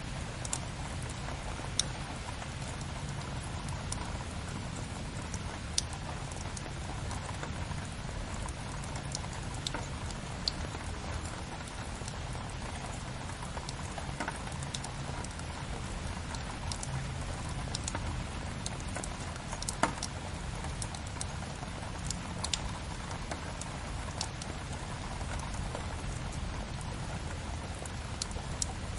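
Steady rain patter layered with a crackling wood fire: an even hiss and low rumble, broken by scattered sharp pops, a few of them louder than the rest.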